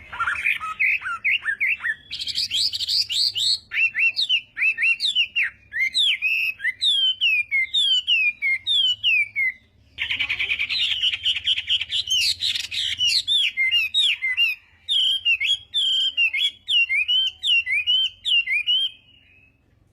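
Chinese hwamei singing a loud, fast song of repeated down-slurred whistles, breaking off briefly about halfway and stopping shortly before the end.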